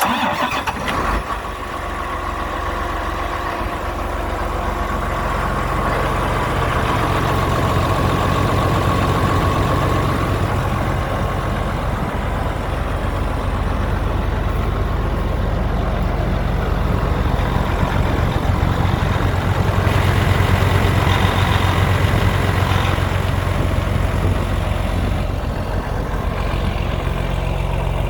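John Deere 8320 tractor's six-cylinder diesel engine starting up and then running at a steady idle, swelling a little louder about two-thirds of the way through.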